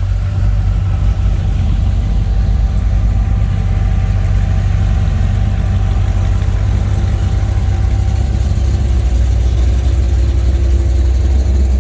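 Classic car engines running slowly as cars roll past at a crawl: a steady deep engine rumble that grows a little stronger and deeper in the last few seconds.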